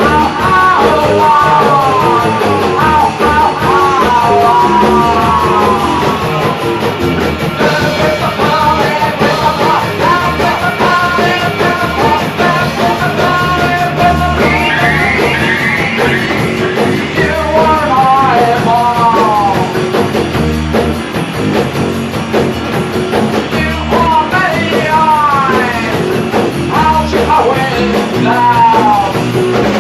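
Rock band music playing, with a lead melody that bends up and down in pitch over a steady bass and drum backing.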